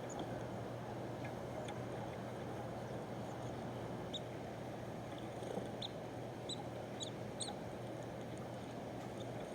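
Birds giving short, high chip calls, scattered and more frequent after about four seconds, over a steady low hum.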